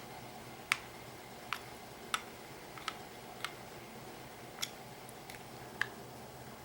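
Light, sharp clicks and taps, about eight at irregular intervals, from small hand tools and parts being handled while the screws of an outboard fuel pump's cover are fitted.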